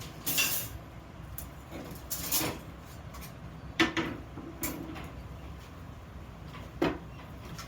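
Bench handling noises: about five short knocks and scrapes of metal parts a second or two apart, one with a brief ring, over a steady low hum.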